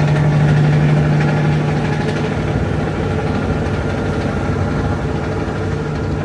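Semi-truck's diesel engine running while under way, a steady low drone with a strong hum that weakens about two and a half seconds in.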